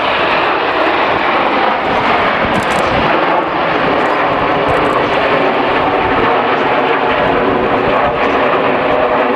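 BAE Hawk T1 jets flying a display, making a loud, steady rush of jet engine noise.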